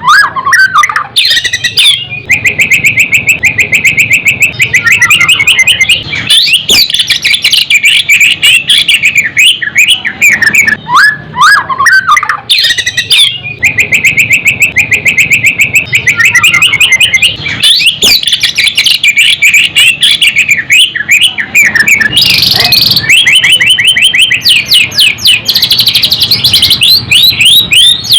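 White-rumped shama singing loudly: long phrases of rapid, repeated trills and whistled notes, with short breaks every few seconds.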